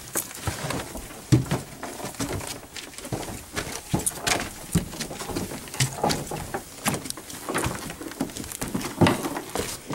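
Footsteps and knocks of several people climbing wooden attic stairs, irregular thumps on bare boards, the loudest about nine seconds in.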